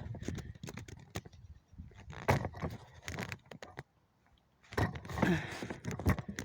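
A long stick knocking and scraping in irregular sharp taps and clatter, with a short pause about four seconds in. Near the end come a couple of brief pitched voice-like sounds.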